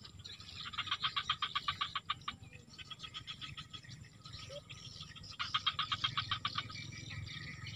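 A bird calling in two fast trills of rapid repeated notes, each about a second and a half long, one near the start and one past the middle, over a low steady background rumble.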